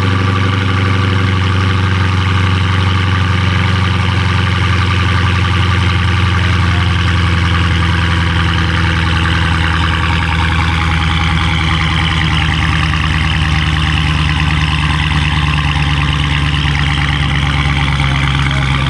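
Dodge Challenger V8 running steadily through its newly modified exhaust, a loud, low, even drone at constant engine speed.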